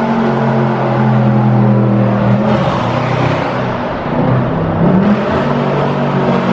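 Dodge Charger Scat Pack's 392 (6.4 L) HEMI V8 running with a steady drone. Its pitch drops and then climbs back up twice, about two and a half seconds in and again near five seconds.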